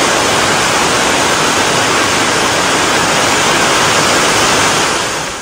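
Heavy tropical downpour: a loud, steady hiss of pouring rain, falling away near the end.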